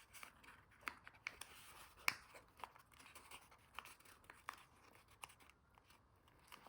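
Faint rustling and crinkling of origami paper being handled and pressed together, with scattered soft clicks and taps.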